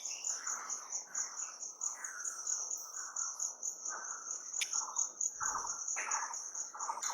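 An insect chirping in a steady, rapid, high-pitched pulse, with birds calling in short repeated chirps beneath it. There is a brief low thump about five and a half seconds in.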